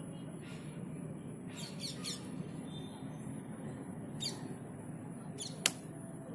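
Several short, high bird chirps in small groups over a steady low background rumble, with one sharp click near the end.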